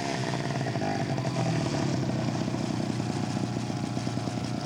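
The piston engine of a large radio-controlled scale model airplane, running steadily at a low, even speed.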